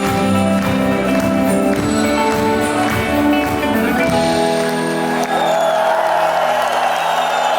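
Live rock band playing the last bars of a song and settling onto a held final chord about halfway through, as the audience breaks into cheering and applause.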